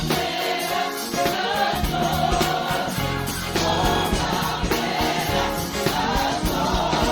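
Worship band music with a group of singers, gospel-style, with drums and bass under the voices.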